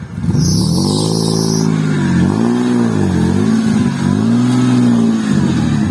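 Car engine revving up and dropping back about four times in a row, the kind of repeated throttle blips used when working a vehicle through a muddy stream crossing.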